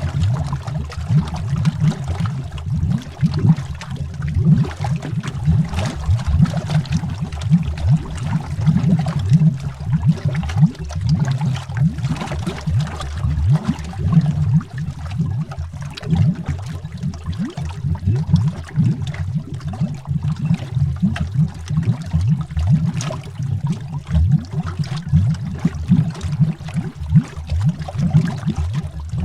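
Underwater bubbles streaming without a break: a dense, low bubbling made of many quick, irregular small pops.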